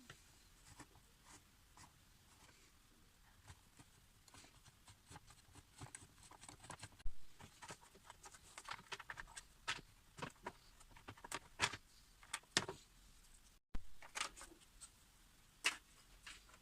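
Scattered light clicks and taps of small parts and tools being handled during a power cutter repair, sparse at first and busier in the second half.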